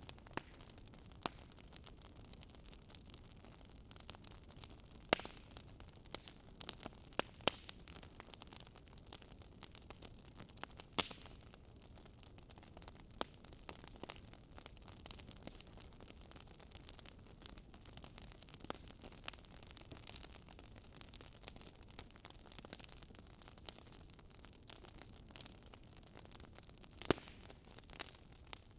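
Fire crackling: irregular sharp pops and snaps over a soft, steady hiss.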